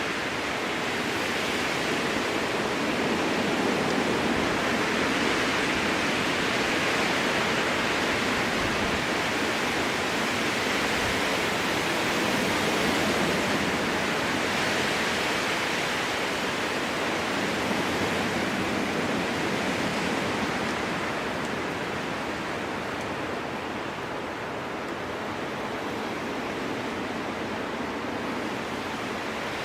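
Strong wind rushing through a spruce forest, a steady roar that swells gently and eases a little after about twenty seconds.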